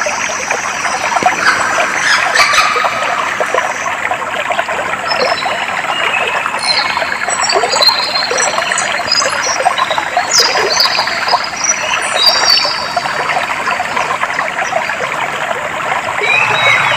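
Clear water running and splashing steadily, with birds calling in short high chirps and whistles over it.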